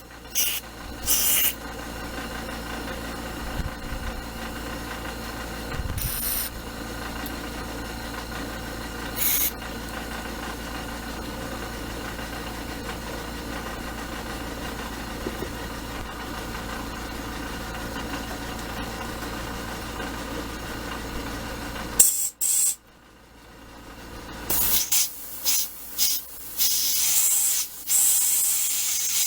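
A steady mechanical hum that cuts off about 22 seconds in, with short hissing bursts of spray being forced through a small-engine carburetor's fuel passages. After the hum stops, the bursts come more often. The passages are still partly clogged.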